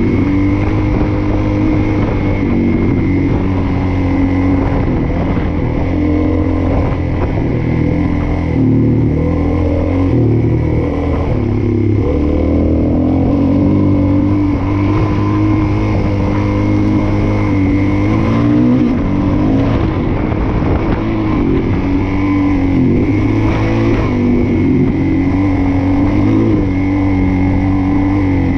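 Suzuki DR-Z400S single-cylinder four-stroke engine running under way, its revs rising and falling with the throttle, with music under it.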